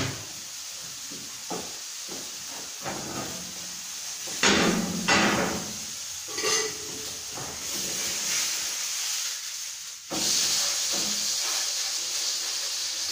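Marinated chicken breasts sizzling as they pan-fry, a steady hiss that grows louder about ten seconds in. A couple of knocks, like pans or utensils being handled, come about four and five seconds in.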